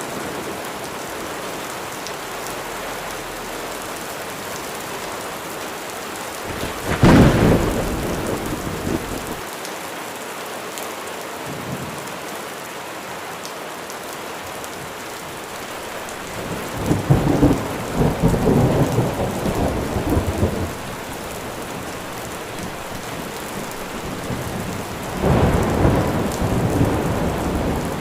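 Steady rain falling, with thunder: a sharp clap about seven seconds in, a longer rolling rumble in the middle, and another rumble starting near the end.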